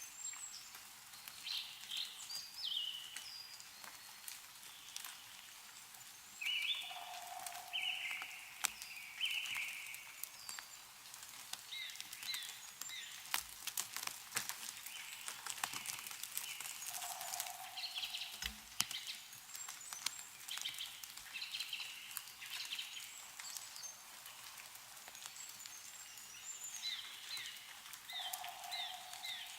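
Small birds chirping and calling over and over, with a lower call about every ten seconds, over scattered sharp drips of meltwater and snow falling from trees.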